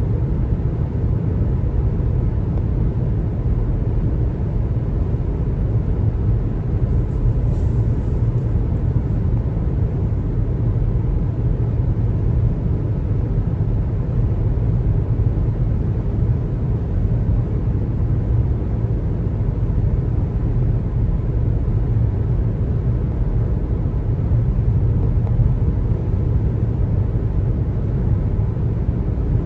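Steady road noise of a car driving on the highway: an even low rumble of tyres and engine.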